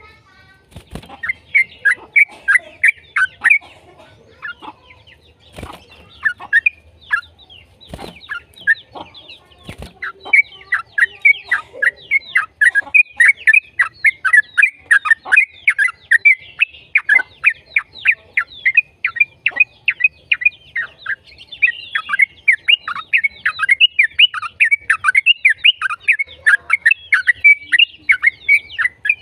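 Yellow-vented bulbul (trucukan) singing a long, rapid run of quick downward-sweeping notes, several a second. It thins out with a few clicks early on and becomes dense and continuous from about ten seconds in.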